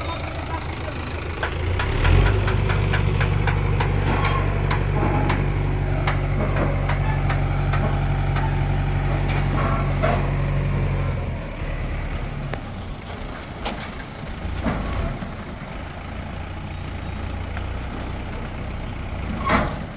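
Heavy diesel machinery engine running. It rises to a louder, steady run about two seconds in and drops back to a lower idle a little after eleven seconds. Scattered short knocks and clanks run throughout, with a louder knock near the end.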